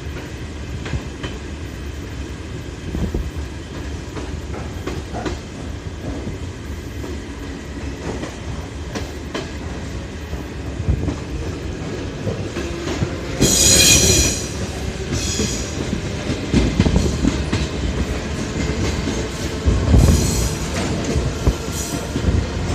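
Train wheels running over the rails with a steady rumble and the clickety-clack of the rail joints. About two thirds of the way through there is a brief, loud high-pitched screech of wheel on rail, and shorter ones come near the end.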